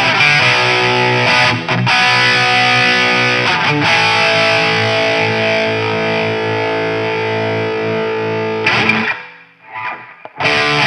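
Distorted electric guitar played through a Mojotone British 800 kit, a hand-built JCM800-style tube amp, with the mids turned back up. Quick chords at first, then a chord left ringing for several seconds that is cut off about nine seconds in; after a brief pause the riffing starts again near the end.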